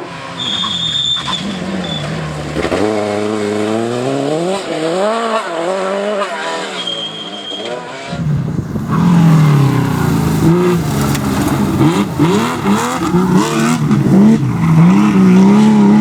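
Rally car engines revving, the pitch sweeping up and down with throttle and gear changes. About halfway through, a louder car takes over, revving hard in quick rising and falling sweeps. A short high whistle sounds near the start.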